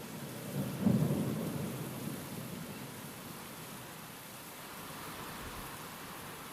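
Steady rain with a roll of thunder that swells about a second in and rumbles away over the next couple of seconds.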